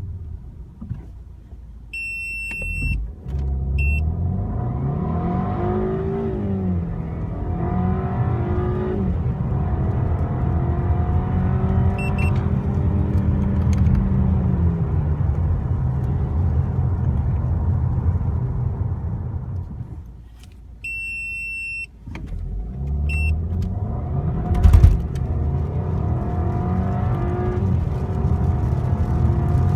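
VW Passat CC's 1.8 TSI turbocharged four-cylinder accelerating hard from a standstill, the revs climbing and dropping back at each quick DSG dual-clutch upshift. This happens twice, each run starting just after a few short electronic beeps, with a brief lull between the runs and a sharp knock a few seconds into the second.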